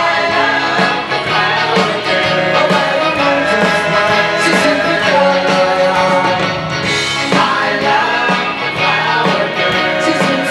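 Live band playing a 1960s pop song, with singing over guitar and drums.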